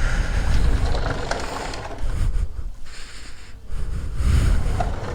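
Uneven low rumbling noise on the microphone, swelling and fading in surges about a second long, with a few faint clicks.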